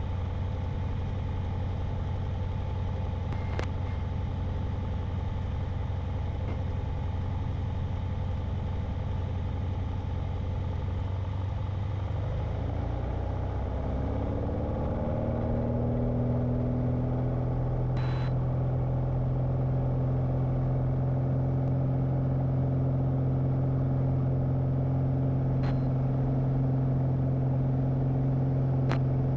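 Light airplane's engine running steadily on the runway; about twelve seconds in its pitch rises over a few seconds as power comes up for the takeoff roll, then holds a higher, steady note.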